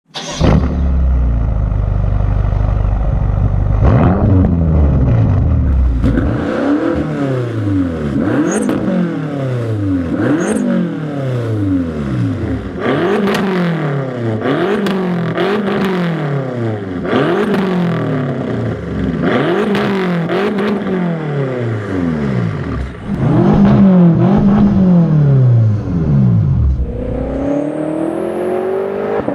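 BMW F10 M5's 4.4-litre twin-turbo V8 heard through a muffler-bypass exhaust with race resonators. It idles with one short blip about four seconds in, then is revved again and again, about a dozen rises and falls. Near the end the revs climb more slowly and smoothly.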